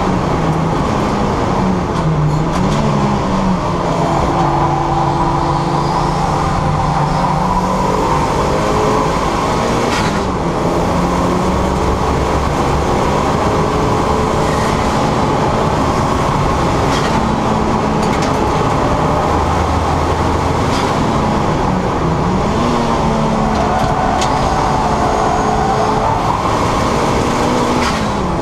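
Turbocharged 2.0 Duratec four-cylinder engine of a Mk6 Ford Fiesta ST150 running hard on track, its pitch climbing and then dropping sharply at several gear changes, over steady wind and tyre noise.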